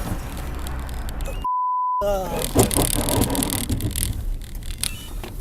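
A pure one-tone censor bleep, about half a second long, cuts in about a second and a half in and blanks out all other sound. Right after it a voice cries out, falling in pitch, over steady vehicle noise with scattered clicks.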